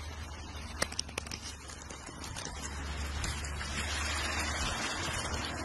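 Steady hiss of light rain with a low rumble of wind on the phone's microphone, and a few faint clicks about a second in.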